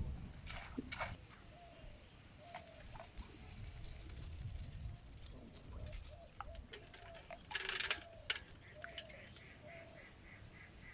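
Birds calling: a string of short calls, and near the end a fast, even run of higher notes about three or four a second, among scattered sharp clicks.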